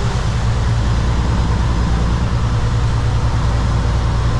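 Kenworth W900 semi truck's diesel engine running at a steady low pitch at low road speed, heard from inside the cab, with road noise.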